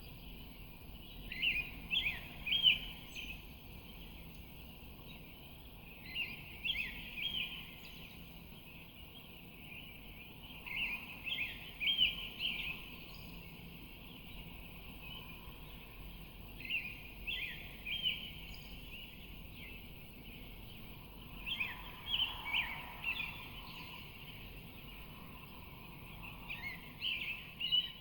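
A songbird singing short phrases of quick chirps and trills, one phrase every four to five seconds, over a steady faint outdoor hiss.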